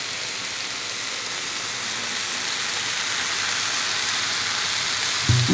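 Vegetables sizzling as they fry in a pan on the stove: a steady hiss that slowly grows a little louder. Music comes in just before the end.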